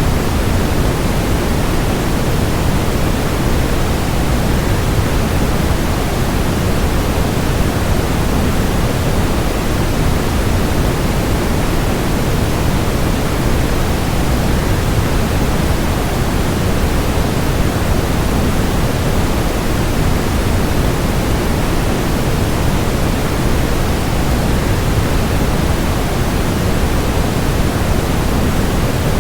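Steady rushing noise of a waterfall blended with white noise, even and unchanging throughout, heaviest in the low range.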